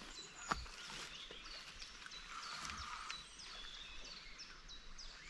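Songbirds singing, a steady run of many short, high chirps and whistles. A single sharp knock sounds about half a second in.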